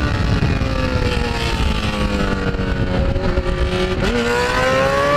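Motorcycle engine running under way. Its pitch sinks slowly and then climbs again, jumping up quickly about four seconds in, over a steady low wind rumble.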